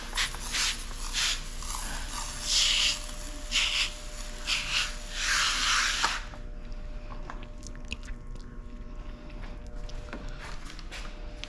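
Window tint film being peeled off its release liner: a run of short hissy, crinkly bursts for about six seconds, then only faint rustling and ticks.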